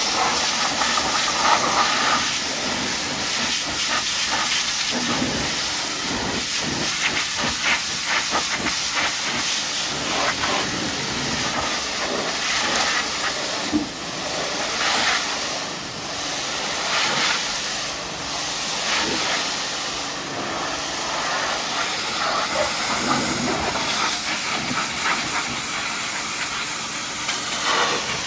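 Pressure washer's high-pressure water jet hissing steadily as it sprays the truck, swelling and easing slightly as the spray moves over the surface.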